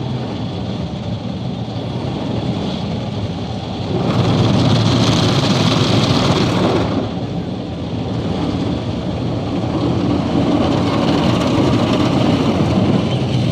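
Automatic car wash running over a car, heard from inside: a steady rushing, rumbling noise that grows louder and brighter about four seconds in, then settles back after about three seconds.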